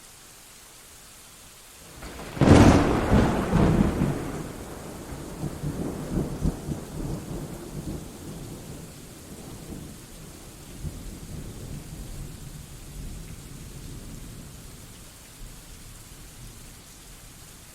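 Steady rain with a close thunderclap about two seconds in: a sharp crack followed by several seconds of rolling, rumbling thunder that slowly fades back into the rain.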